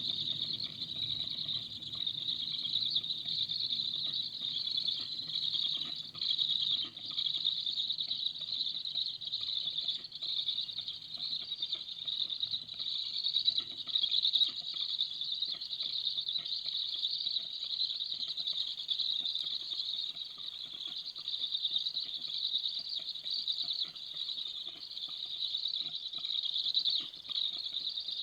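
Heavy rain falling steadily through the forest canopy and onto the nest in a thunderstorm: a constant hiss with drops pattering.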